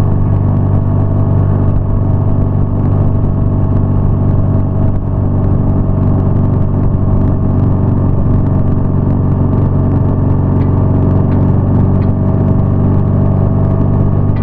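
BMW R nineT's boxer twin engine running at a steady cruising speed, a constant engine note with no revving up or down.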